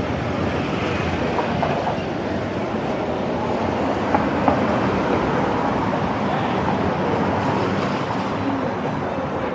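Steady city street traffic noise, with motor scooters and cars moving along the road.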